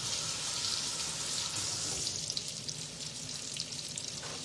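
Zucchini fritters sizzling in bacon grease in a frying pan, with a kitchen tap running as hands are washed.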